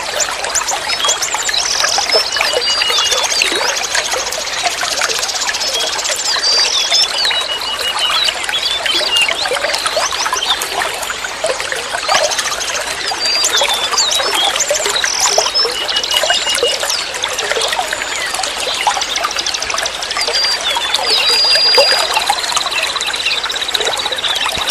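Flowing water trickling and splashing continuously, with small birds chirping over it in short repeated calls and a long high trill near the end.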